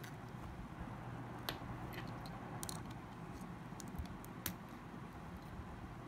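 A few light, scattered clicks and taps from small tools and plastic phone parts being handled during a smartphone teardown, over a steady low hum.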